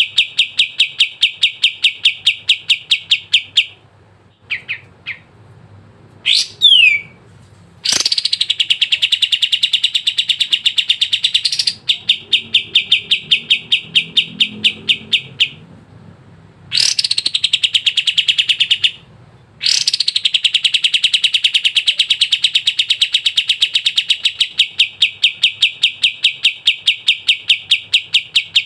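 A kapas tembak songbird singing in long, fast trills of evenly repeated sharp chirps, several seconds at a stretch, broken by short pauses. A couple of rising whistled notes come in one of the pauses.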